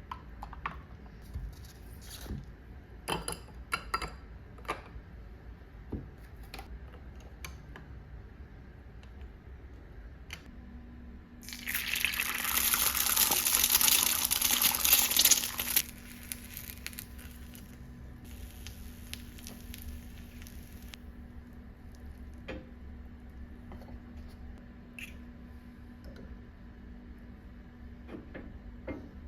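Water running from a tap into a sink for about four seconds, near the middle, with a steady low hum starting just before it and lasting to the end. Scattered small clicks and knocks come before it.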